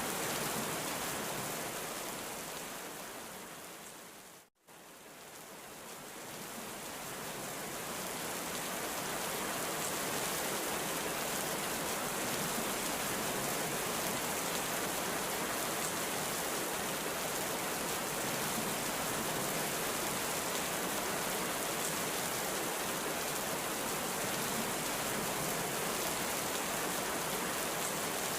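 Heavy rain falling steadily, a dense even hiss. About four seconds in it fades out to a moment of silence, then fades back up to full strength over the next few seconds.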